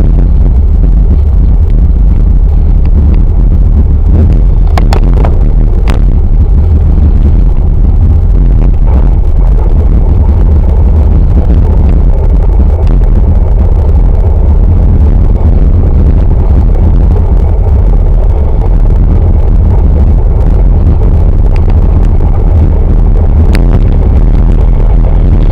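Heavy wind buffeting on the microphone of a camera carried on a moving bicycle: a loud, steady low rumble, with a few sharp clicks about five to six seconds in and again near the end.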